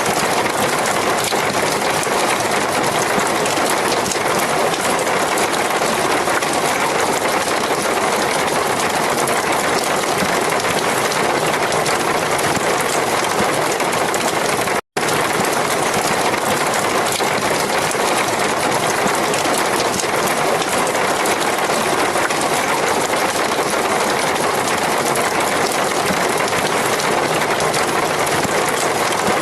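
Heavy rain falling in a steady, dense hiss, with no thunder; the sound cuts out for an instant about halfway through, where the recording loops.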